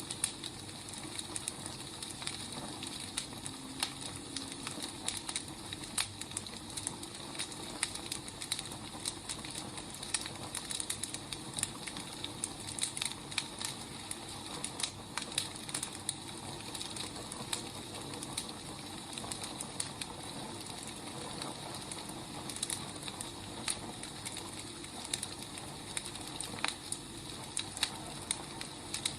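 Firewood burning, a steady soft hiss with frequent irregular crackles and pops from the logs.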